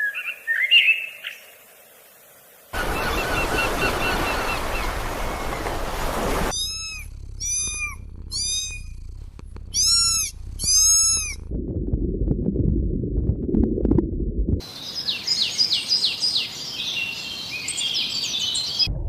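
A string of separate animal-call clips cut hard against one another: a short chirping call, a noisy stretch, a run of five arched high calls, a low rumbling noise, then a burst of rapid high chirps near the end, the chirps and calls bird-like.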